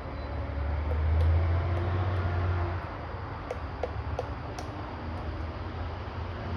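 Woodpecker pecking into a tree: a few sharp, irregular taps around the middle, over a low steady rumble that is loudest in the first half.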